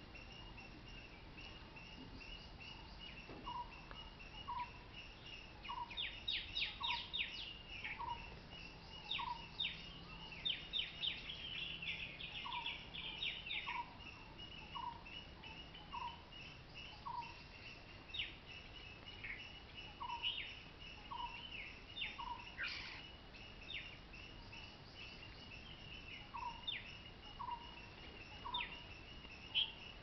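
Wild birds calling: one bird repeats a short note about every second and a half, while others give bursts of rapid, quick-falling chirps, busiest in the middle stretch, over a steady high-pitched background tone.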